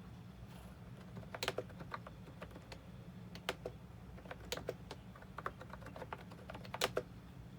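Typing on a computer keyboard: irregular, unhurried keystroke clicks, a few a second, over a low steady hum.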